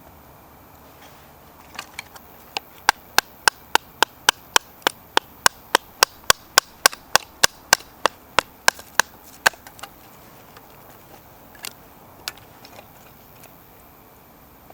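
Wood being chopped: a rapid, even run of sharp chopping strikes, about three a second for some seven seconds, then a few scattered knocks.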